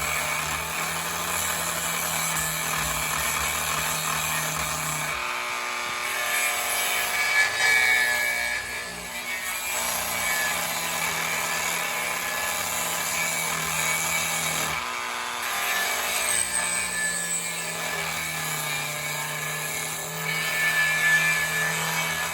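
Electric power tool working a small wooden block, cutting or sanding, with a steady motor hum that breaks off and changes character about five seconds in and again about fifteen seconds in.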